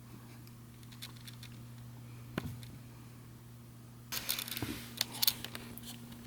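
A single sharp knock about two seconds in, then a flurry of scratchy clicks and sharp taps a couple of seconds later, over a steady low hum.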